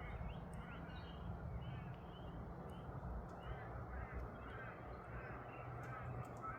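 Birds calling in a continuous run of short chirps over a steady low rumble.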